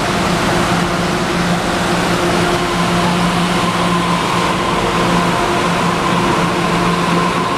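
Steady mechanical hum of a Taroko Express tilting electric train (TEMU1000) at the platform, with a low steady tone and a higher tone that comes in about three and a half seconds in.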